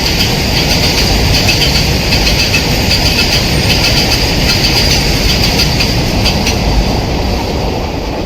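Express passenger train passing at speed, its wheels clattering rapidly over the rail joints with a high steady squealing tone above the rumble. The sound fades near the end as the train moves away.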